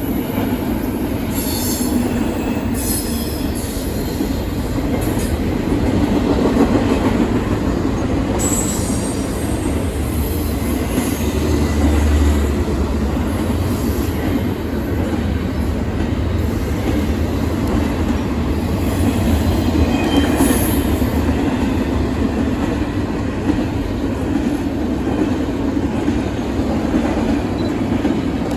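Intermodal freight train cars rolling past, a steady loud rumble of steel wheels on rail with brief high wheel squeals a few times.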